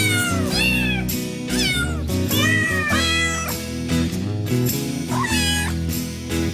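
Cats meowing repeatedly, about six short rising-and-falling calls, over background music.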